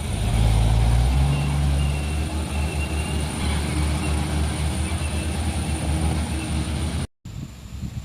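Heavy truck's diesel engine running low and heavy, loudest in the first second. The sound drops out for a moment near the end and comes back quieter.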